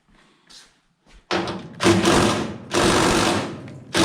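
Impact wrench hammering in runs of a second or two, starting after about a second of faint clicks, with the longest run near the end.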